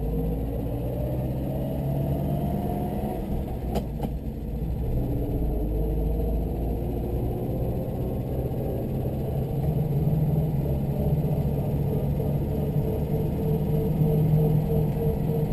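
Moskvitch 408's 1.36-litre four-cylinder engine heard from inside the cabin, rising in pitch as the car accelerates, then running steadily under way. A single sharp click sounds a little before four seconds in.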